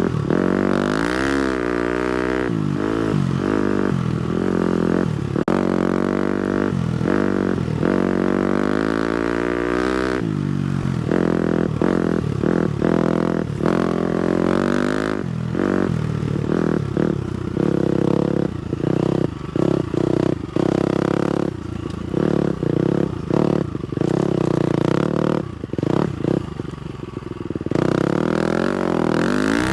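A 250 cc four-stroke single-cylinder motocross bike engine being ridden, its pitch sweeping up and down repeatedly with the throttle and gear changes. From about halfway on the sound turns choppy, with the throttle rolled on and off in short spells.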